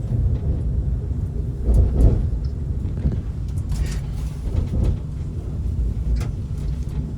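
Steady low rumble of a moving passenger train heard from inside the carriage, with a heavy thump about two seconds in and a few lighter knocks and rattles later.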